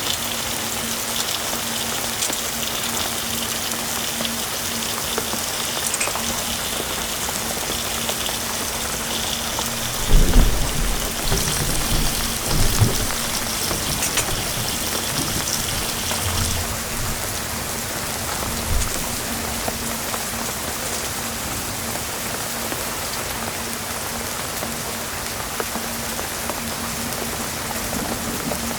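Heavy rain falling steadily, with a faint steady hum underneath. About ten seconds in, a low rumble rises for a few seconds and fades.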